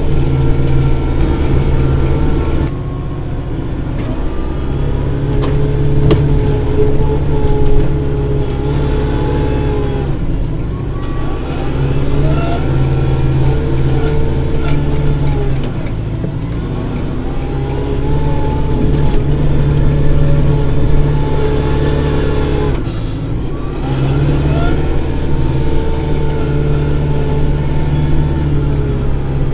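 Kubota tractor's diesel engine running under load while snow blowing, its sound swelling and easing back every five to seven seconds as the load comes and goes.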